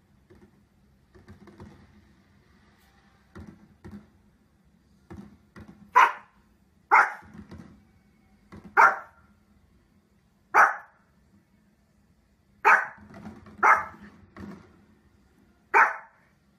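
Small Pomeranian barking: a few soft low woofs, then from about six seconds in seven loud, sharp single barks, each one to two seconds apart.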